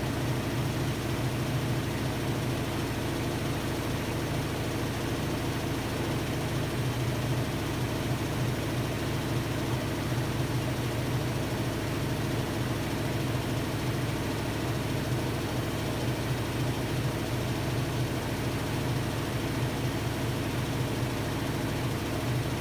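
Hotpoint-Ariston Aqualtis washer-dryer running with a steady low hum.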